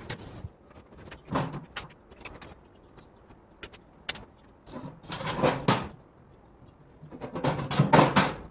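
Workshop handling noise: several bursts of scraping and rattling, each about a second long, with sharp clicks in between. The loudest burst comes near the end.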